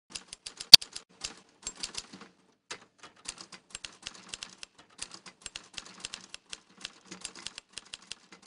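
Typewriter keys being struck in quick, irregular runs of clicks, with one much louder strike about three-quarters of a second in.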